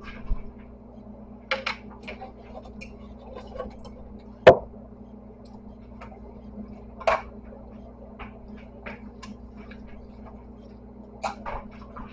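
Kitchen clatter while cooking: scattered clicks and knocks of utensils and cookware against a steady low hum, with one sharp, loud knock about four and a half seconds in and a smaller one a few seconds later.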